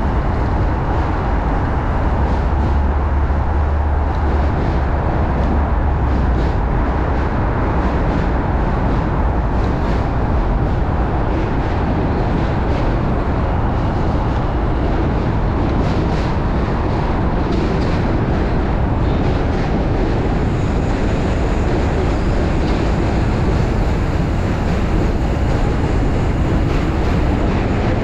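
Strong wind buffeting a chest-mounted camera's microphone on a moving bicycle, a steady loud rumble with traffic and road noise under it.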